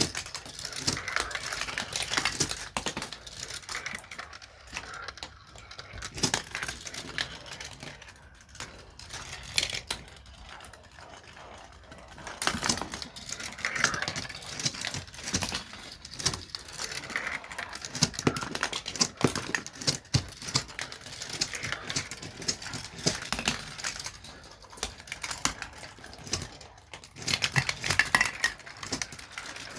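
Marbles rolling and clattering through a plastic Gravitrax marble run: a steady stream of small clicks and rattles that eases off for a few seconds about a third of the way in.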